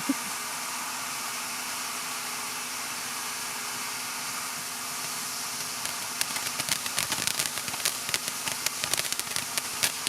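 Fireworks: a steady hiss for about six seconds, then a dense, rapid crackling sets in and keeps going.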